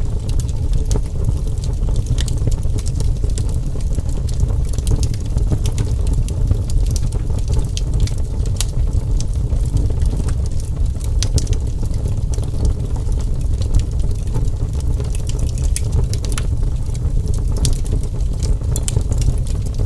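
Fire crackling: a steady low rumble of burning with many sharp pops and snaps scattered irregularly throughout.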